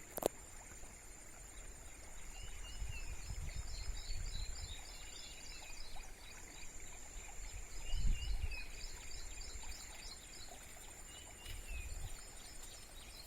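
Rural outdoor ambience: a steady high insect drone, rows of quick repeated chirps, and short down-slurred bird calls every few seconds. A few low rumbles come and go.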